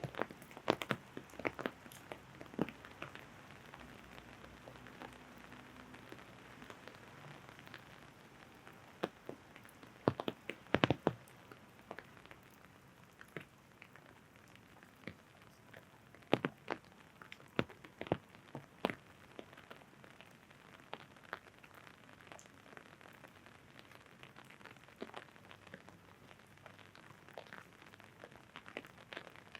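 Rain falling with a steady hiss, and irregular sharp taps of drops landing on an umbrella overhead, bunched a few times, most densely about ten seconds in.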